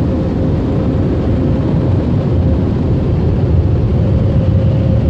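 Automatic car wash air dryer blowers running, heard from inside the car: a loud, steady rush of air with a faint steady hum in it.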